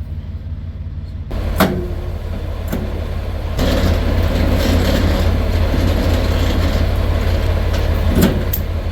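Semi-truck diesel engine idling steadily, with a sharp click about a second and a half in and a steady rushing noise that comes in about three and a half seconds in and runs on, broken by a couple of clicks near the end.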